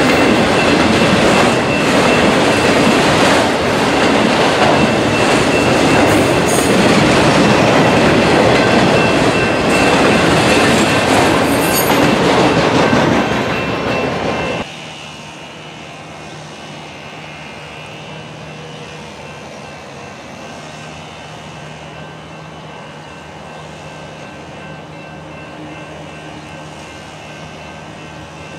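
Freight train of autorack cars rolling past, steel wheels clattering on the rails. About halfway through it cuts off abruptly to a much quieter steady hum.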